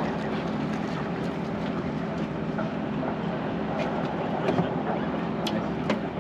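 Steady drone of a fishing boat's engine running, with a faint hum and a few light clicks and knocks on deck.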